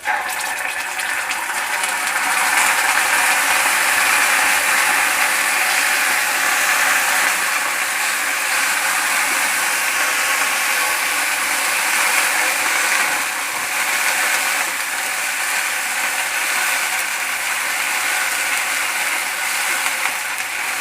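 Yogurt poured into hot oil with fried green chillies and curry leaves in a kadai, setting off loud, steady sizzling that starts suddenly.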